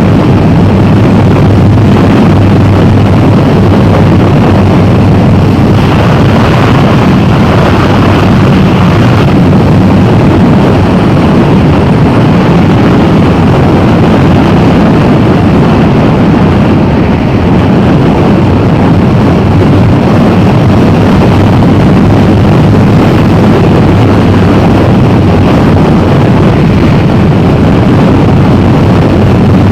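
Motorcycle running steadily under way, its engine drone mixed with loud rushing wind noise.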